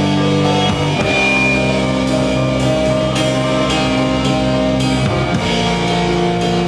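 Rock band playing live: guitars hold sustained chords over drums. The chord changes right at the start and again about five seconds in.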